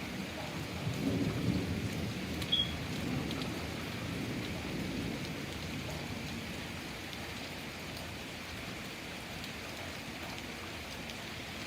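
Steady rain falling, with a rumble of thunder that swells about a second in and dies away over the next few seconds. A brief high chirp sounds near the middle of the rumble.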